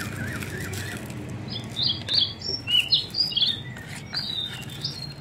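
Birds chirping: a quick series of short, high chirps through the middle, over a steady low background hum.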